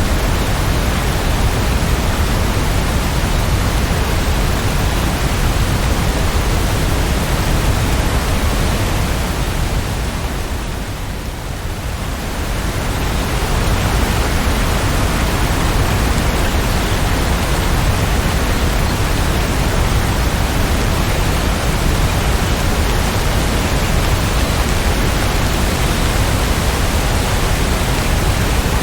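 Heavy rain falling, a steady dense hiss. It dips briefly a little under halfway through, then comes back to full strength.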